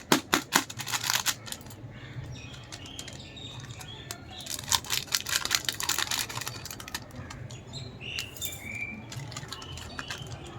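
Plastic product packets crinkling and rustling as they are handled and opened, in three bursts: at the start, around the middle, and briefly near the end.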